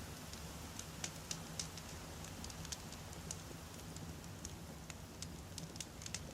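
Wood campfire burning, with irregular sharp crackles and pops over a soft steady low rumble.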